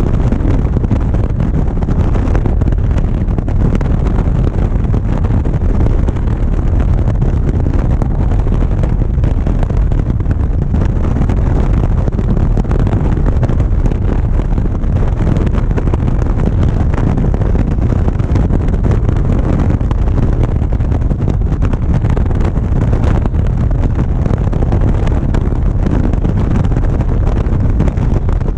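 Steady wind rumble on the GoPro microphone of a motorcycle cruising along the road, with the bike's running and road noise mixed in.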